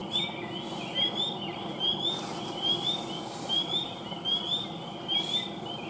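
A chorus of night animals calling: short, high, upslurred chirps repeating two or three times a second over a faint steady background.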